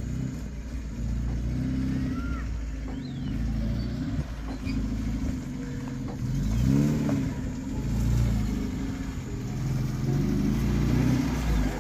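Modified Maruti Gypsy 4x4 engine pulling the off-roader slowly up a rough dirt track, with the revs rising and falling a little past the middle.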